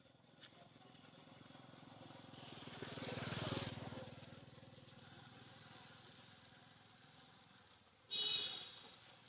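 A motor vehicle passing by, its engine hum and road noise swelling to a peak about three and a half seconds in and then fading away. About eight seconds in comes a sudden, short, loud high-pitched sound.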